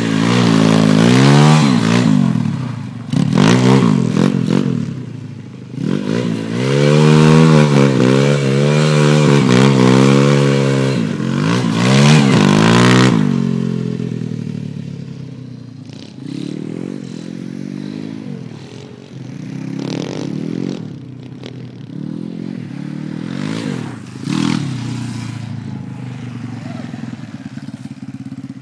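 Pit bike engine revving up and down over and over, loud for the first half, then quieter with shorter bursts of throttle and some clattering.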